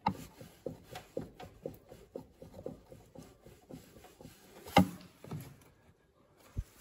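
Lada Vesta front right suspension knocking in a steady run of about two knocks a second as it is rocked, then one sharp, louder knock a little under five seconds in. The owner takes it for a worn strut mount bearing.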